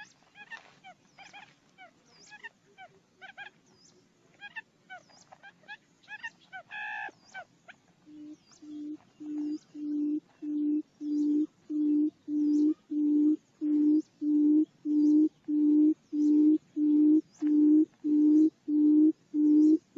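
Buttonquail lure call: for the first eight seconds a scatter of short high chirping notes, then a long run of low hooting booms, about one and a half a second, that swell in loudness at first and then keep an even beat.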